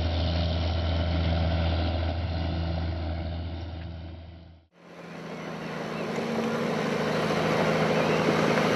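Heavy diesel earthmoving machine running steadily. It fades out about four and a half seconds in, and a different machine's engine fades in and keeps running.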